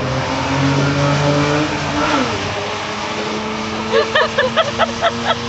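Hyundai Tiburon running down a drag strip under power. Its engine note holds steady, then drops in pitch about two seconds in as the car passes and pulls away.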